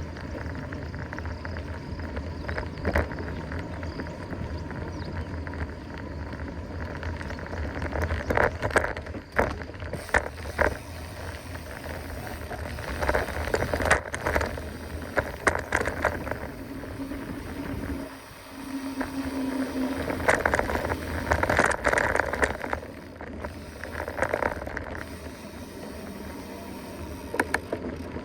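Mountain bike riding along a dirt trail: tyres rolling over the ground, with scattered rattles and knocks from the bike over bumps and a steady low rumble throughout.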